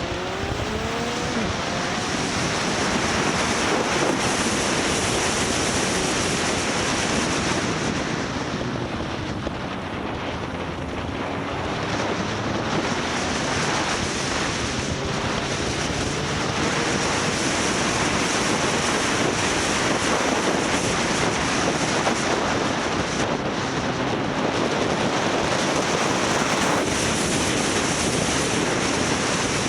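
Wind rushing over the microphone of a camera on a moving motorcycle, with the motorcycle's engine running underneath. The engine's pitch rises in places.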